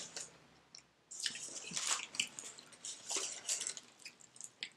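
Close-miked wet chewing of a soft, sauce-covered mouthful of cheese fries: a run of quick, irregular squishy mouth clicks and smacks.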